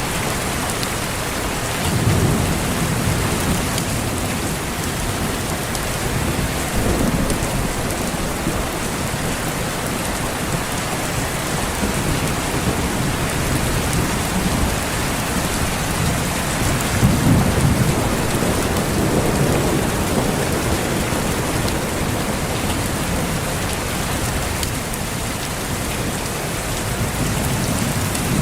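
Steady heavy rain hissing, with rolls of distant thunder rumbling low beneath it: one about two seconds in, a weaker one around seven seconds, the strongest about seventeen to twenty seconds in, and another near the end.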